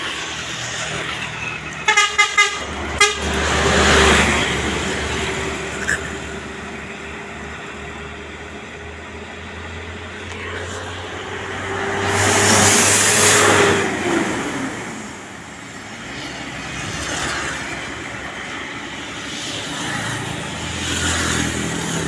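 Heavy road traffic, tour buses and trucks, passing one after another, each swelling up and fading away. About two seconds in comes a quick run of short horn toots. The loudest pass is near the middle, and a steady engine tone drops away as that vehicle goes by.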